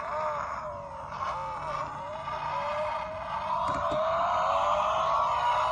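Electronic vehicle sound effect from a battery-powered toy's small speaker. It is tinny and has no bass, its pitch wavers at first and then rises steadily.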